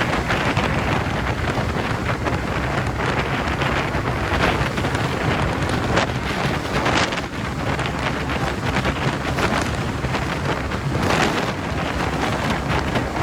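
Wind rushing over the microphone of a rider on a TVS NTorq scooter at road speed, steady throughout, with a low rumble of road and engine underneath.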